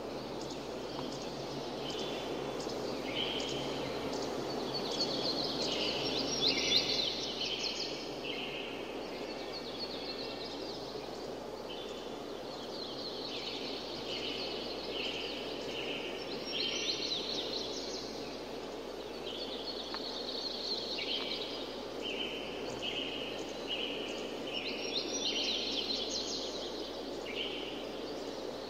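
Birds chirping: clusters of short, repeated high chirps and quick trills come and go every few seconds over a steady rushing background noise.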